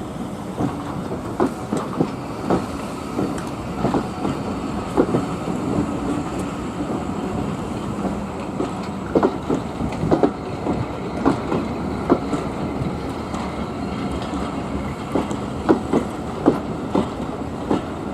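Passing train carriages rolling over the track with a steady rumble, the wheels clicking irregularly over rail joints.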